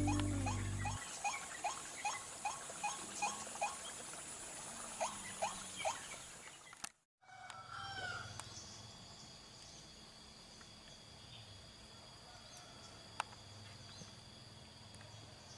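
A bird calling a quick series of short, upward-hooked notes, about three a second, then after a short pause three more. After a sudden cut, faint steady insect drone with a single click.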